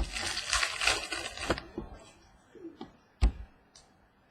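Trading cards being handled: a dense rustle of cards sliding against each other for about the first second and a half, then a few light taps, with one sharp tap a little past three seconds.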